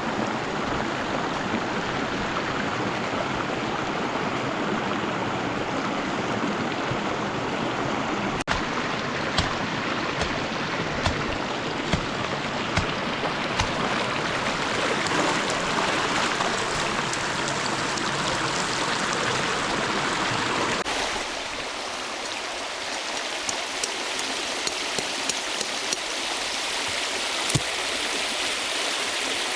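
River water rushing steadily over stones, with scattered sharp clicks or knocks from about a third of the way in. About two-thirds of the way through, the water sound changes abruptly and becomes thinner and brighter.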